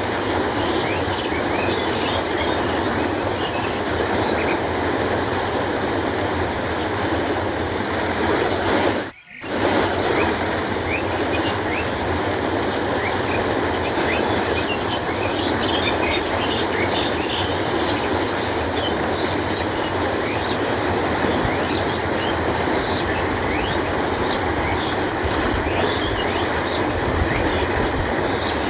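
Canal water flowing and rushing steadily, with many short high flicks and splashes on top. The sound drops out sharply for a moment about nine seconds in, then resumes.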